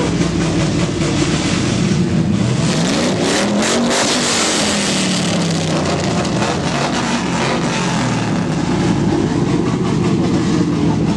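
A loud car engine revving as the car accelerates past. The engine pitch climbs to a peak about four seconds in, then falls away as it goes by.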